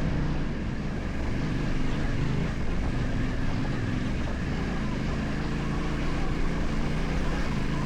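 Yamaha Ténéré 700's parallel-twin engine running steadily under load as the motorcycle climbs a dirt forest road.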